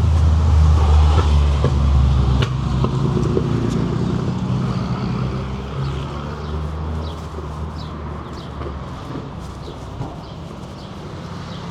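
City street traffic: a motor vehicle's engine rumbling close by, loudest at first and gradually fading away, over steady urban noise. Faint high chirps come through in the second half.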